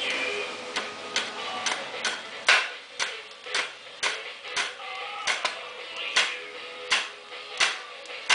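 Hammer tapping a nail into wood in a steady run of strikes, about two a second, light at first and harder from a couple of seconds in.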